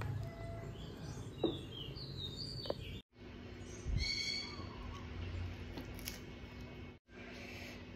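Birds chirping in the background, with two short clicks in the first few seconds; the sound cuts out briefly twice.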